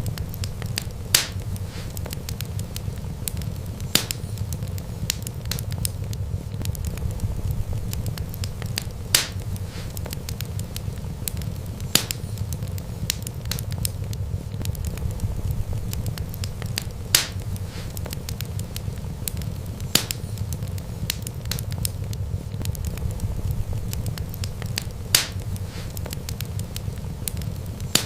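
Wood fire crackling: a steady low rumble of flames under a constant patter of small crackles, with a louder sharp pop every three to five seconds.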